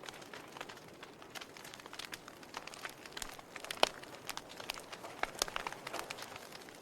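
Wood fire burning in a fireplace, crackling: irregular sharp pops and snaps over a soft hiss, with one louder pop about four seconds in.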